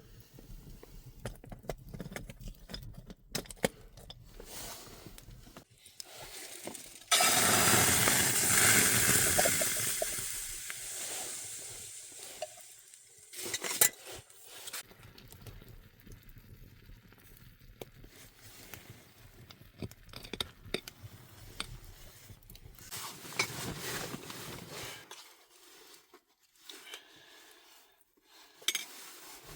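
Sizzling starts suddenly about seven seconds in and fades away over several seconds, among scattered clinks and knocks of metal cookware.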